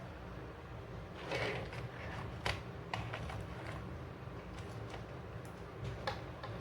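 Plastic toy parts being handled: a short scrape about a second and a half in, then a sharp click and a few lighter clicks, over a steady low hum.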